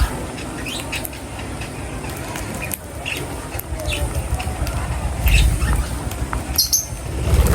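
Birds chirping and squawking in short, scattered calls over a steady low background rumble, with a couple of louder low thumps near the end.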